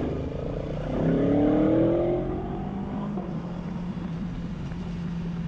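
Aprilia Tuono V4 1100 RR's V4 engine pulling through the revs for about two seconds, its pitch rising, then easing back to a steady low hum.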